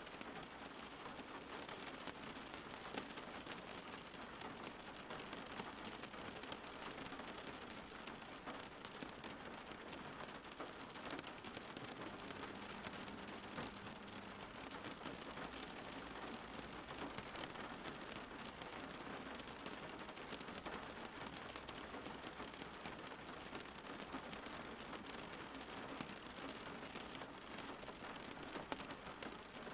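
Steady rain falling, an even hiss made of many small drop ticks, unchanging throughout.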